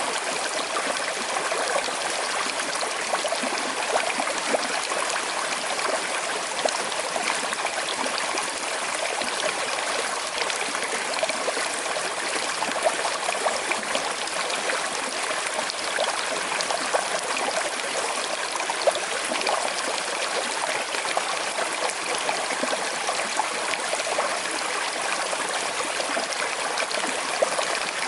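Small, slow-flowing river running and trickling over stones: a steady rush of water with fine splashing and gurgling.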